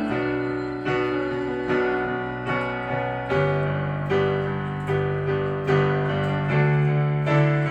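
Instrumental music: piano chords struck about once a second over sustained bass notes, with no singing.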